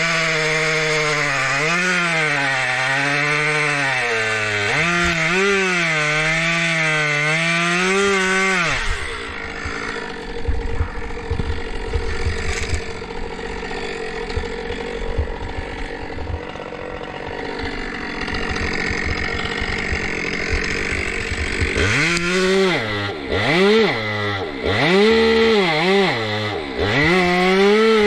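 Chainsaw running at high revs for about eight seconds, its pitch wavering as it works. It then drops to a low, uneven rumble for some thirteen seconds, and near the end it is revved up and down repeatedly in quick bursts.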